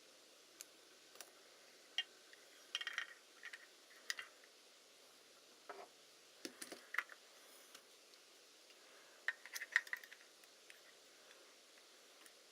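Scattered small clicks and light metallic clinks in three short clusters, the sound of small metal parts and tools being handled and set down on a work surface.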